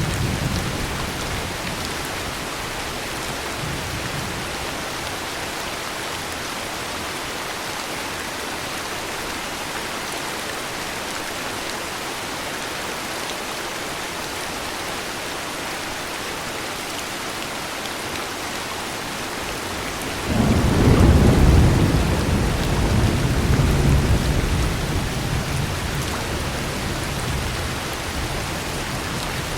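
Heavy rain falling steadily, with a rumble of thunder that breaks in suddenly about two-thirds of the way through and rolls on for several seconds as it fades.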